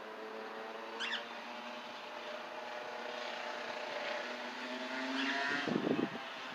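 A motor vehicle's engine drones, its pitch rising slowly as it grows louder. A short bird chirp comes about a second in, and low buffeting, like wind on the microphone, comes near the end.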